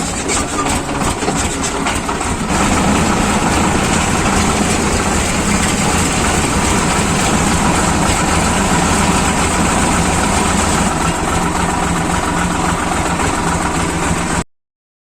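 Tractor engine running steadily, then the sound cuts off abruptly near the end.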